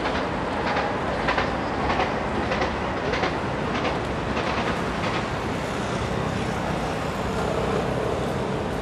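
A train passing, its wheels clicking over rail joints in an even rhythm over a steady rumble; the clicks stop about five seconds in and the rumble goes on.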